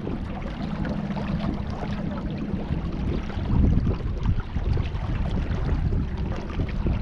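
Water splashing and sloshing around a moving kayak, with wind rumbling on the microphone.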